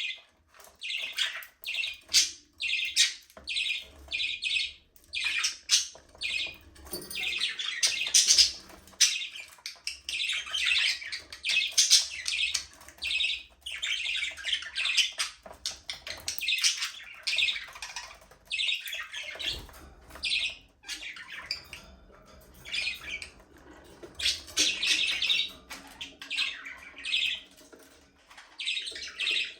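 A flock of budgerigars chattering and chirping, many short, warbling calls overlapping with no break, now and then a harsher squawk.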